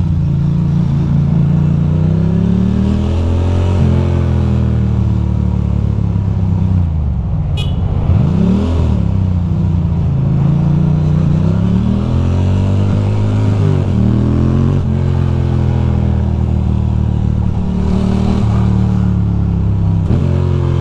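2006 Ducati Monster 620's air-cooled L-twin engine running while riding in traffic, its revs rising and falling several times with throttle and gear changes. A short, sharp click about seven and a half seconds in.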